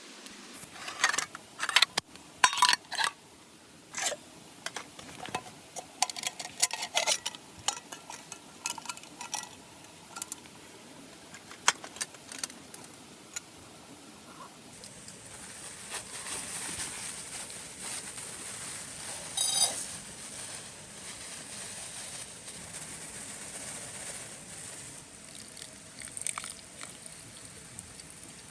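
Metal camp cookware and utensils clinking and scraping in quick, irregular strikes, some of them ringing briefly. About halfway through this gives way to a steady soft hiss with a few scattered clicks and one short clatter.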